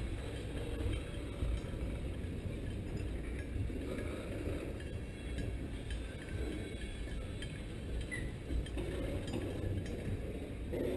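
Railroad tank cars rolling past: a steady low rumble of steel wheels on rail, with light metallic clinks and a brief high squeak from the wheels and couplers about eight seconds in.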